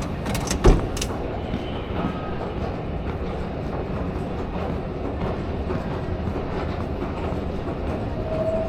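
New York subway train on the Q line running on its tracks: a steady low rumble, with a few sharp clicks and knocks in the first second.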